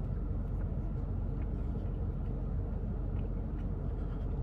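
Steady low rumble with a hum, like a vehicle's engine running, heard from inside.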